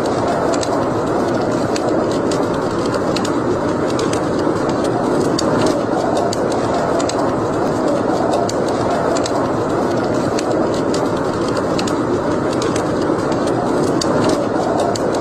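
Fire in a fireplace crackling, with many small sharp pops scattered over a steady rushing noise.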